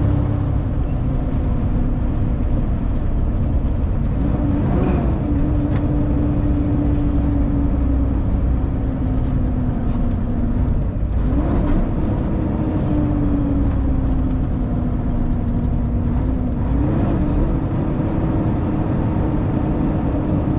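Inside the cab of a 2000 Freightliner FLD 112 semi truck at highway speed: the diesel engine and road noise drone steadily. The engine's tone slowly sags and then jumps back up, three times over the stretch.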